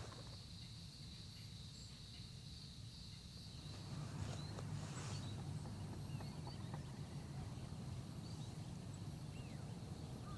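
Faint outdoor ambience: a steady low rumble with scattered short bird chirps, and a thin steady high-pitched tone for the first few seconds.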